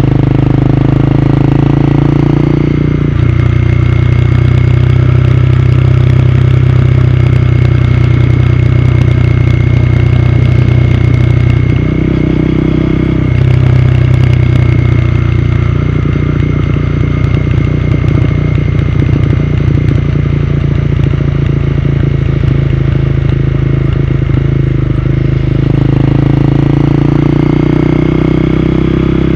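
Honda CB250R single-cylinder motorcycle engine running under way. Its note shifts several times as the revs change.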